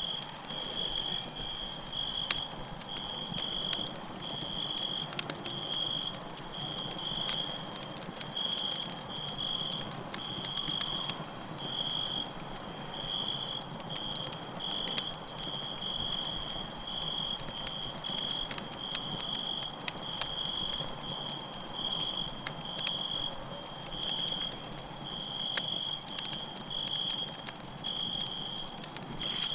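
Campfire crackling with scattered sharp pops, over crickets chirping in a steady run of short, high-pitched pulses.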